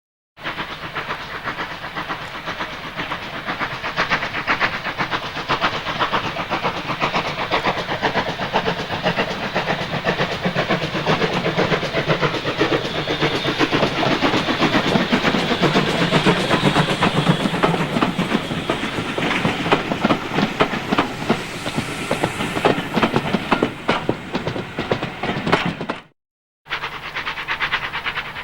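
Steam locomotive working a train past, a rapid rhythm of exhaust beats and wheel clatter over steady noise. The sound drops out completely for a moment about 26 seconds in, then a similar train sound resumes.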